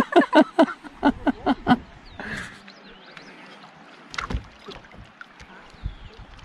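A small boat being paddled on a lake: water swishing around the paddle and hull, with a couple of sharp knocks in the second half. It opens with a quick burst of rhythmic laughter lasting about two seconds.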